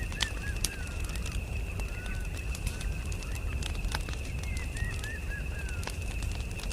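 Campfire crackling, with irregular sharp pops and snaps over a low rumble. A bird twitters in two short runs of small chirps, near the start and again about four and a half seconds in, and a steady high thin tone runs underneath.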